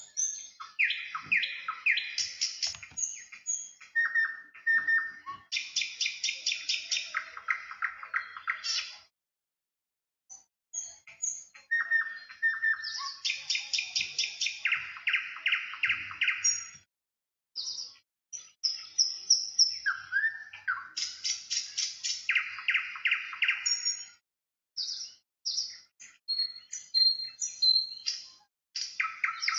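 Songbirds singing in repeated phrases of rapid trills and clear whistled notes, with brief pauses between the phrases.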